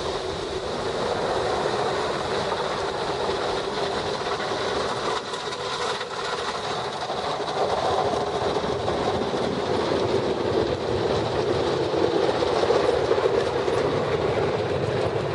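Ryko automatic brush car wash working over the car, with spinning brushes and water spray beating steadily against the body, heard from inside the car. A dense, steady rushing clatter that grows slightly louder in the second half.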